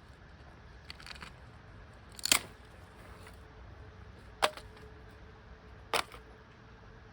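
Three sharp strikes about two seconds apart. After the second, a faint ringing tone lingers.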